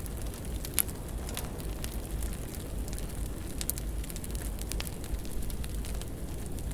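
Wood fire burning in a fireplace: a steady low rumble of the flames with scattered sharp crackles and pops, the loudest pop about a second in.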